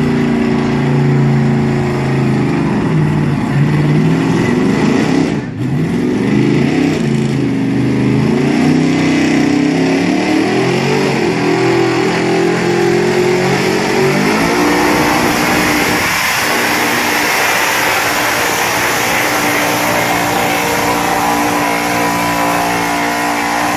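Pickup truck engine running hard at high revs under load in a truck pull, its pitch wavering, with a brief drop about five seconds in. About fourteen seconds in the revs climb and hold high under a rising hiss of noise.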